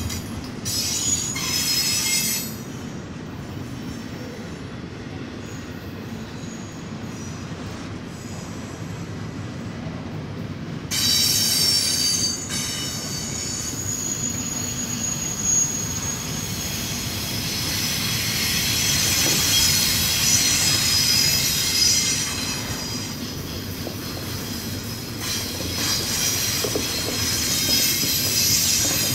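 CN double-stack intermodal freight train rolling past with a steady rumble of wheels on rail, and high-pitched wheel squeal coming and going in stretches, loudest from about eleven seconds in and again late on.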